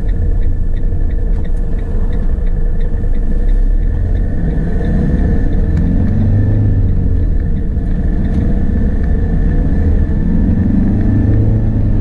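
Fiat Ducato van's diesel engine and road rumble heard from inside the cab as it pulls away and accelerates, the engine pitch rising and dropping several times as it shifts up through the gears. A steady high whine runs underneath, with light regular ticking over the first couple of seconds.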